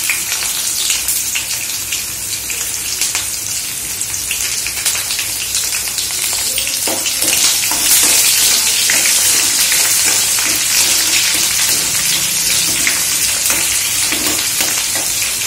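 Chopped onions sizzling in hot oil in a kadai: a steady frying hiss full of fine crackles. From about halfway a metal ladle stirs the onions, and the sizzle grows louder.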